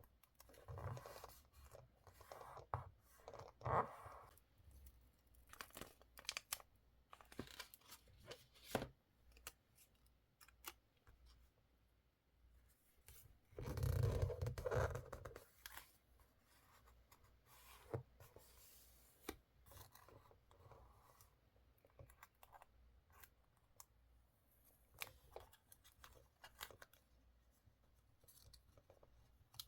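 Paper and stationery being handled for scrapbooking: soft rustles, small taps and snips scattered throughout, with a louder, longer stretch of paper handling about halfway through.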